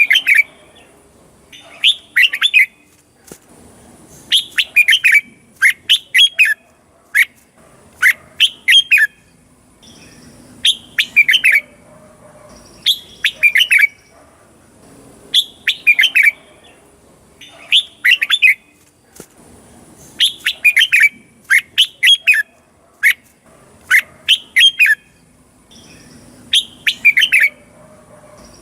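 Red-whiskered bulbul singing: short, quick phrases of whistled notes that drop in pitch, repeated every second or two.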